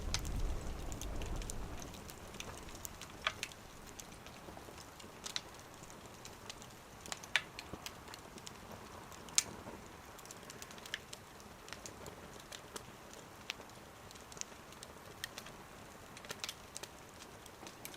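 Wood fire burning in a small wood stove, crackling with scattered sharp pops over a faint steady hiss. A low rumble at the start fades out within about two seconds.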